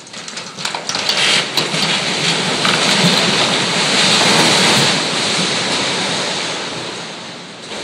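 A section of Yankee Stadium's wall pulled over by cables and collapsing: a run of sharp cracks and knocks in the first couple of seconds, then a loud crashing rumble of falling debris that is loudest around four seconds in and fades near the end.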